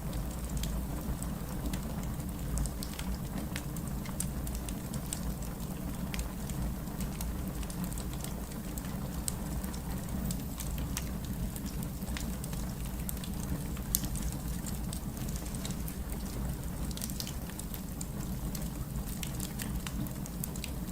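Wood fire crackling in a fireplace: scattered sharp pops and snaps over a steady low rumble, with one louder pop about two-thirds of the way through.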